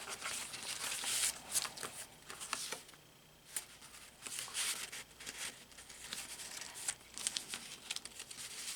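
Paper rustling and crinkling as the pages of a handmade paper journal are turned and handled, in irregular bursts with a brief quiet pause about three seconds in.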